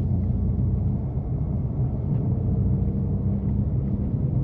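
BMW F80 M3's twin-turbo straight-six, on catless downpipes and an open-valved exhaust, droning steadily at low, constant revs while cruising, with tyre and road noise underneath.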